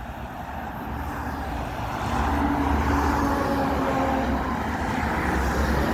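Steady mechanical rumble with a low hum and a faint steady tone, like a motor or machine running, growing louder over the first two seconds and then holding level.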